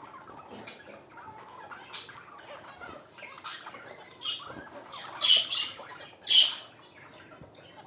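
Caged budgerigars and zebra finches chirping and chattering, with two loud sharp calls about five and six seconds in.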